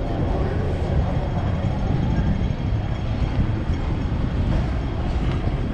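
Hong Kong double-decker electric tram running along its street track: a steady low rumble of the wheels on the rails.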